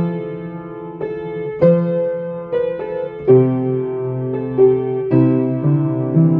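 Solo piano playing a Christmas carol: a melody in single notes over sustained low chords, with new notes struck every half second or so.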